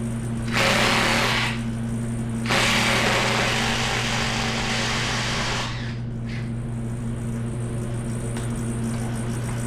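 A power tool running on the engine's fasteners in two bursts, a short one about a second long, then a longer one of about three seconds, over a steady low hum.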